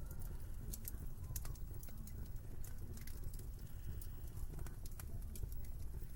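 Wood fire crackling, with irregular sharp pops and ticks over a steady low rumble.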